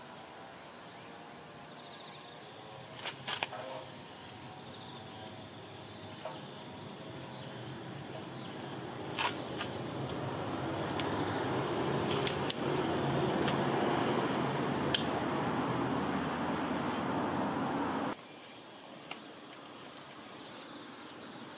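Insects chirping in a steady high pulse over a constant high whine. A rushing noise swells from about 8 s and stops abruptly near 18 s, with a few sharp pops or clicks scattered through it.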